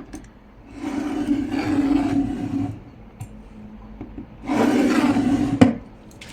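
Scissor blade drawn along cardstock to score a fold line: two long scraping strokes, the first about two seconds and the second about a second, the second ending in a sharp tap.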